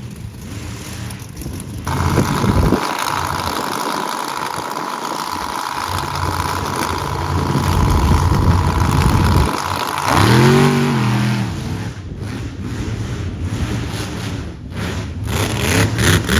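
Monster truck engine running hard and revving. It gets louder about two seconds in, and its pitch rises and falls sharply about ten seconds in.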